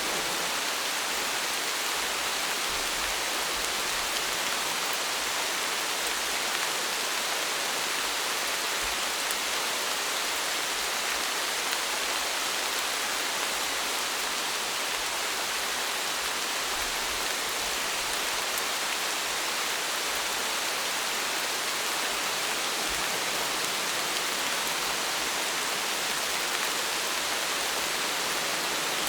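Steady rain falling, an even hiss that holds without breaks or thunder.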